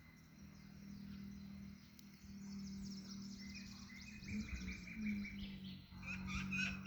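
Several songbirds chirping and trilling, with quick high twittering that turns into louder, busier warbling calls near the end, over a steady low hum.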